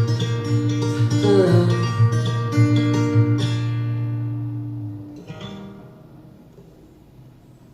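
Guitar playing the closing bars alone: plucked notes for about three seconds, then a last chord ringing out and fading away by about five seconds in. A brief soft rustle follows, then low quiet.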